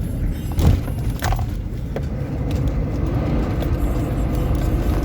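Off-road vehicle driving, its engine making a steady low rumble, with a couple of short knocks or rattles about a second in.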